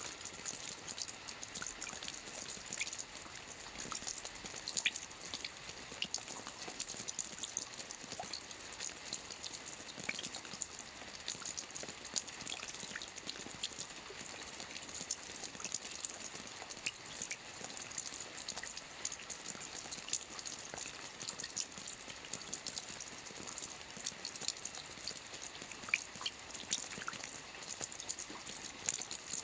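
Steady rain falling, with many separate drops heard as sharp ticks over an even hiss.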